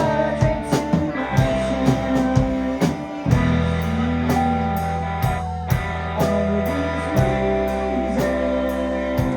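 Live rock band playing: electric guitar, bass and keyboards over a drum kit, with cymbal hits keeping a steady beat of about two a second.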